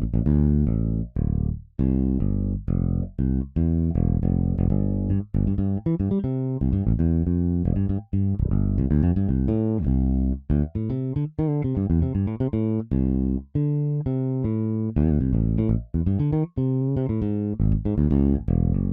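EZBass virtual electric bass playing a funk bass line from a MIDI pattern: short, choppy plucked notes with brief gaps between them.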